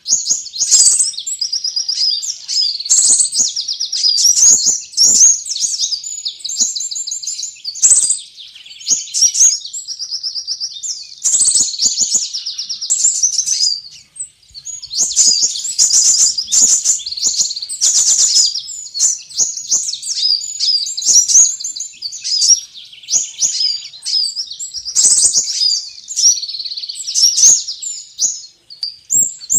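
Sunbirds chirping and trilling in fast, high-pitched phrases, one burst after another with only brief pauses: a looped bird-lure recording used to draw in small birds.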